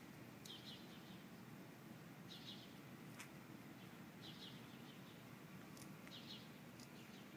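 Faint bird call, a short cluster of high chirps repeated four times about every two seconds, over quiet outdoor background with a few faint ticks.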